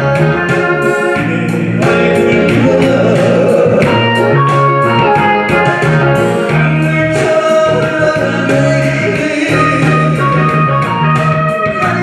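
A singer performing a Korean trot song live over a loud backing track with a steady beat.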